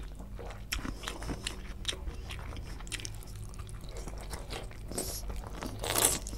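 Close-miked mouth sounds of a man biting and chewing a curried chicken leg piece eaten by hand: wet smacks and clicks of teeth and lips on the meat. The loudest burst of noise comes near the end.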